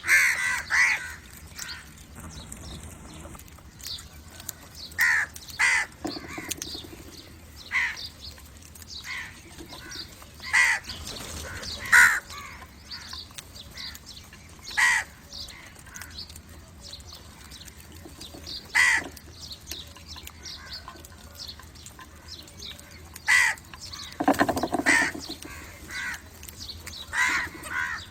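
Crows cawing: short caws repeated at irregular intervals, a few seconds apart.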